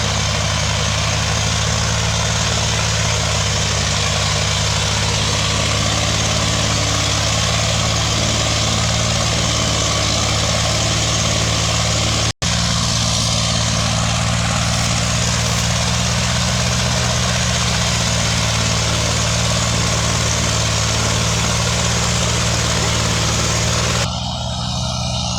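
Tractor diesel engine running steadily, broken by a split-second gap about halfway through; near the end the sound changes and drops slightly in level.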